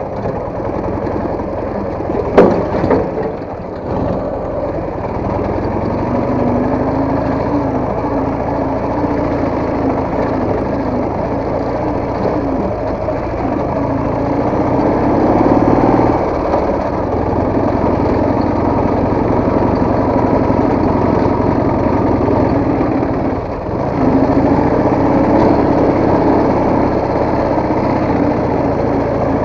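Soviet motorcycle engine running on the move, its pitch rising and falling with the throttle. A single sharp knock comes about two seconds in, and the engine sound dips briefly about three-quarters of the way through.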